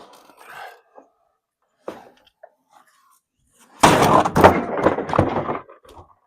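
An old refrigerator tipping off a trailer and crashing to the ground: a loud clatter of several heavy impacts lasting about two seconds, starting about four seconds in.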